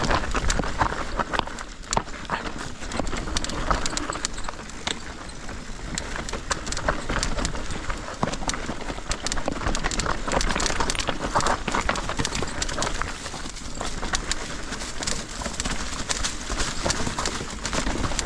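Mountain bike being ridden down a rocky trail: chain, frame and tyres clattering over stones in quick, irregular knocks and rattles.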